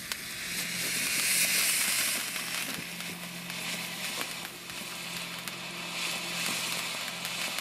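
Shuttle ground fountain firework burning: a steady hiss of spraying sparks with crackling, loudest in the first two seconds, then easing off.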